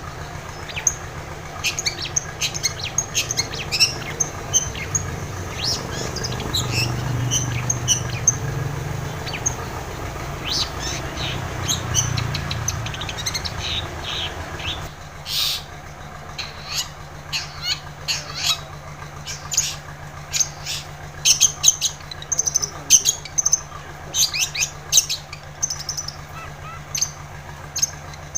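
Long-tailed shrike (cendet) singing: a rapid, varied run of short sharp chirps and harsh squawky notes, over a low steady hum.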